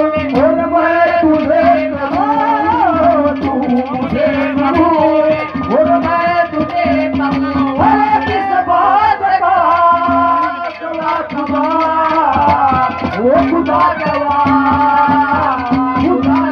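Live Haryanvi ragni music: a gliding, ornamented melody over a steady tabla beat.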